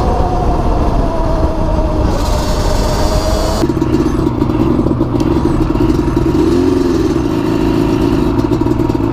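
Motorcycle engine running under a constant low rumble. For the first three and a half seconds its pitch rises and falls with the throttle, then it cuts abruptly to a steadier, lower engine note that bends up and back briefly about seven seconds in.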